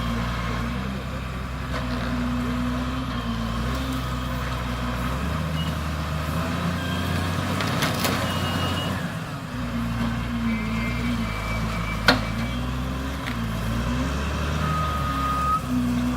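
Diesel engine of a heavy machine running a hydraulic tree shear while cutting eucalyptus, its pitch sagging and recovering several times under load. A single sharp crack sounds about twelve seconds in.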